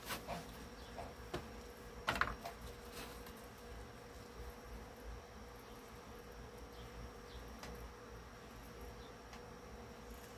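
Faint steady buzzing hum, with light clicks right at the start and about two seconds in.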